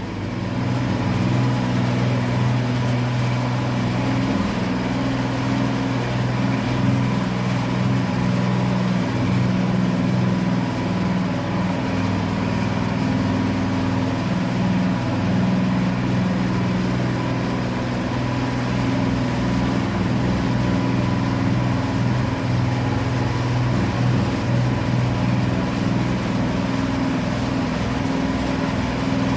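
Walk-behind power trowel's small petrol engine running at a steady speed, the machine smoothing a fresh mortar floor screed.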